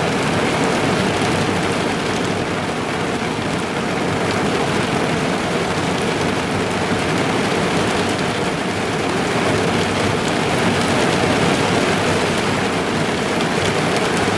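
Steady heavy rain pattering on a car's roof and windows, heard from inside the car as a loud, even wash dotted with fine drop ticks.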